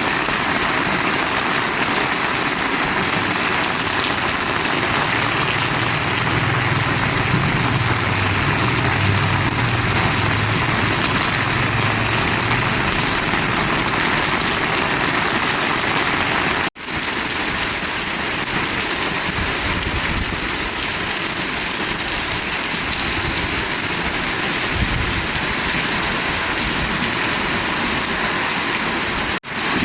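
Heavy rain falling steadily, a dense even hiss, with a low rumble for a few seconds early on. The sound cuts out for an instant about halfway through and again near the end.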